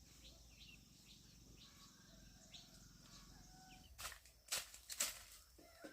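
Faint, short high chirps repeating every half second or so, then a burst of loud rustling about four seconds in.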